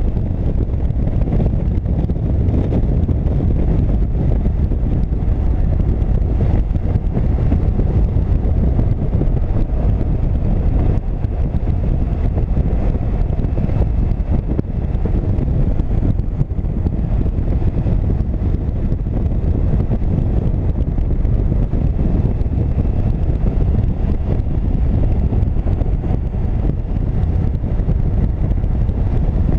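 Motorcycle riding at road speed: steady wind rush buffeting the microphone over the low drone of the running engine.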